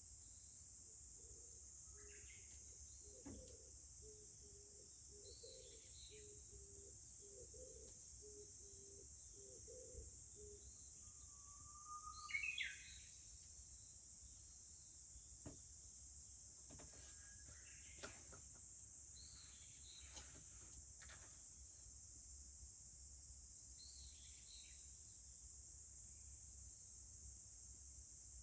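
A steady high insect drone from summer insects, with birds calling now and then over it; the loudest is a bird call about twelve seconds in. A few faint sharp clicks are heard in the second half.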